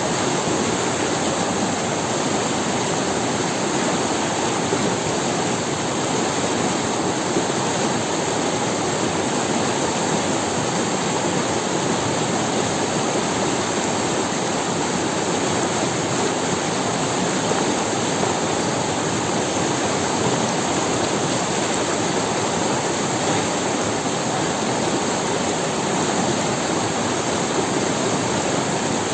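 A forest river running over stones: a steady rush of water with no breaks.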